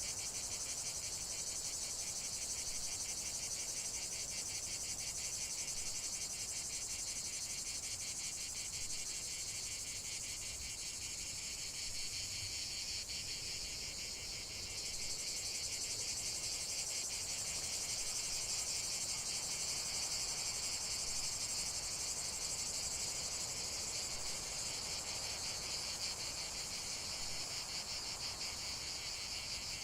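A steady chorus of insects: many fast, high-pitched trills layered together without a break.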